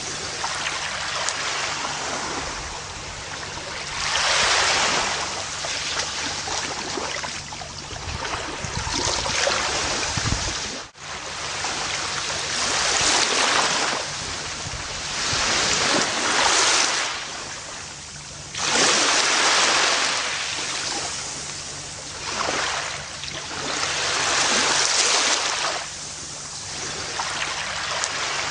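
Gentle ocean waves washing onto a beach, each surge rising to a hissing rush and falling away every three to four seconds. The sound briefly drops out for a moment about eleven seconds in.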